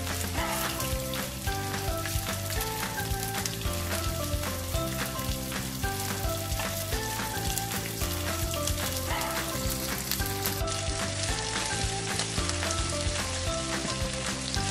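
Strips of beef sizzling and crackling in hot oil in a non-stick frying pan, stirred with a wooden spoon, with background music playing a steady melody and bass line.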